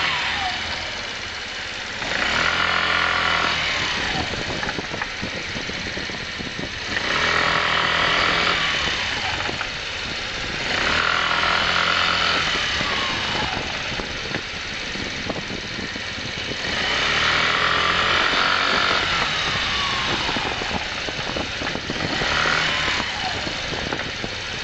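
125 cc motorcycle engine being ridden, revving up and easing off in repeated surges about every four to five seconds, with a falling whine as each surge dies away. The bike is being run to bring out an abnormal noise.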